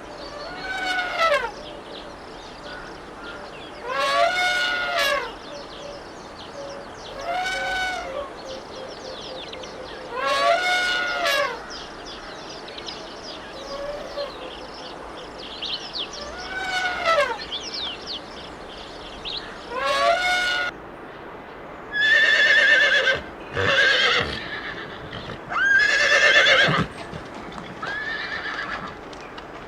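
Horse whinnying again and again: calls about a second long, each rising and falling in pitch, a few seconds apart, coming faster and with a wavering pitch in the last third.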